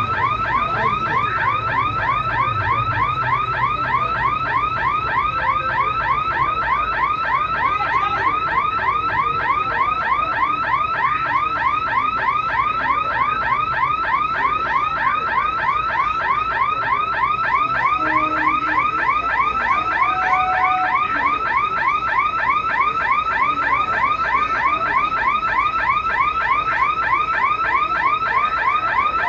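Electronic alarm sounding a loud, rapid chirp repeated evenly without a break, with a low rumble underneath for the first several seconds.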